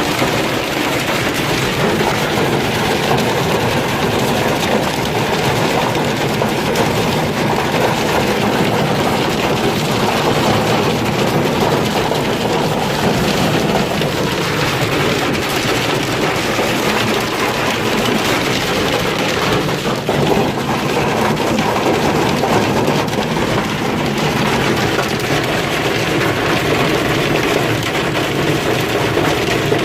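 Hailstones pelting down in a dense, steady clatter of countless small impacts.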